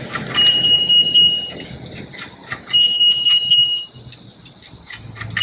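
Self-serve car wash coin machine taking coins, each one answered by a long, steady, high electronic beep. Three beeps about two seconds apart, with short clicks of coins dropping in between, as the wash time is topped up.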